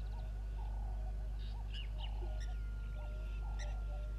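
Several birds calling: repeated short, hoarse calls about once or twice a second, with scattered higher chirps, over a steady low hum.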